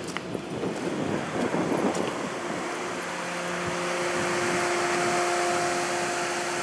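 A 2007 Pontiac Vibe's engine idling, a steady whirring hum with a few constant tones that settles in about halfway through, after some rustling at the start.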